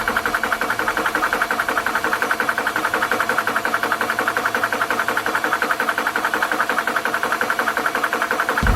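TOPA 12V high-pressure PCP air compressor running steadily while filling, with a rapid, even pumping pulse. A low rumble joins near the end.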